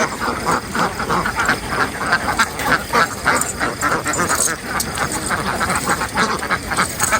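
A large flock of domestic ducks quacking continuously, many short calls overlapping into a dense chatter.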